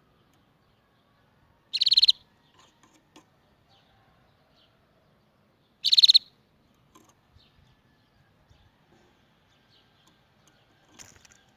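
Canary giving two loud, short, rapid trills about four seconds apart, with faint chirps between them and a softer trill near the end.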